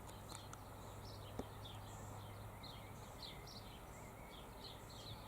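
Faint chirping of small birds: many short, high chirps, each dropping slightly in pitch, repeating over a low steady hum.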